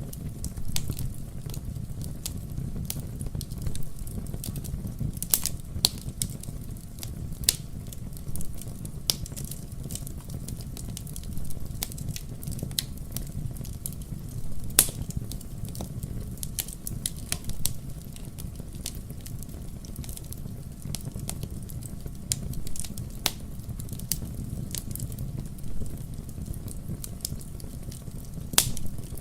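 Wood fire burning in a fireplace: a steady low rumble of flames with irregular sharp crackles and pops throughout, the loudest about halfway through.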